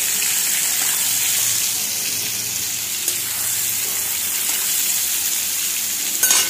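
Mushrooms frying in hot oil in an iron kadhai: a steady sizzle as a spatula gathers them out of the pan, with a single knock near the end.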